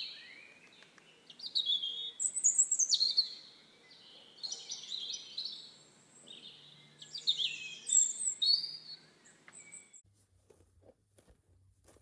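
A bird calling in a run of high, chirping phrases, many of them sweeping down in pitch, which stop about ten seconds in.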